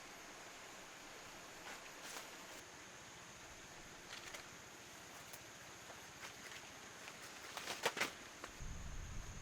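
Quiet rural outdoor ambience with a steady high hiss. A few short rustles and snaps come through, the loudest cluster about eight seconds in, and a low rumble starts near the end.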